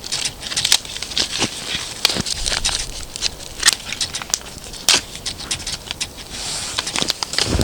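Small campfire of damp twigs burning and crackling, with many irregular sharp pops and snaps as it struggles to catch.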